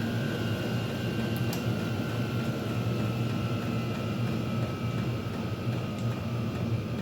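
Chinese diesel air heater running: a steady low hum from its blower, with a thin whine that slowly falls in pitch. Two faint clicks come about a second and a half in.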